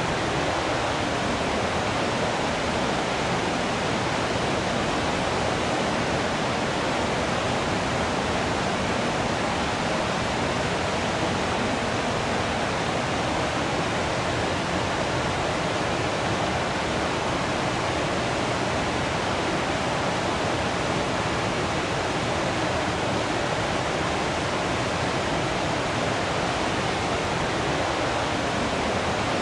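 Natural waterfall: water falling and splashing in a steady, unchanging rush.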